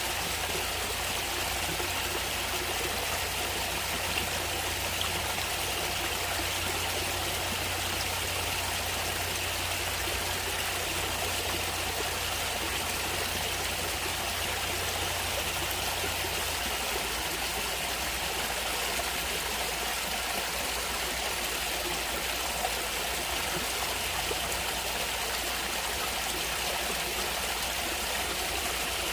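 Natural stream water flowing steadily, an even rushing with no breaks or changes.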